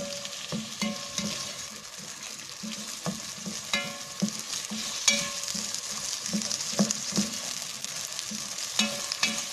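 Chana daal frying in oil and spice masala in a pot, sizzling steadily while a spatula stirs it in quick repeated scraping strokes, about three a second. There are a few sharp clicks as the spatula knocks the pot.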